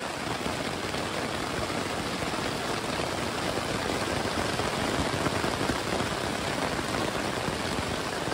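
Steady rain falling on a backpacking tent's fly, heard from inside the tent.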